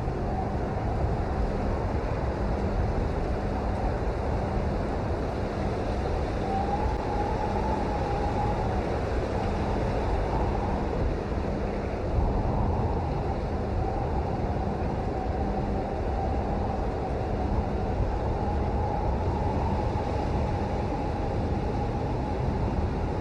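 Steady rain noise: a dense, even hiss, heaviest in the low end, with a faint wavering tone above it.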